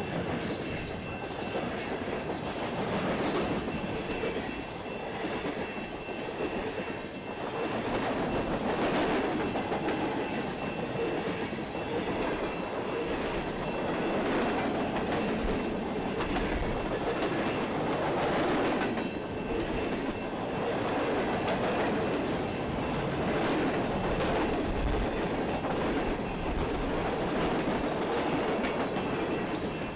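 Canadian Pacific freight train passing close by: a steady rolling rumble of the cars with the clickety-clack of wheels over rail joints, with sharp clicks in the first few seconds.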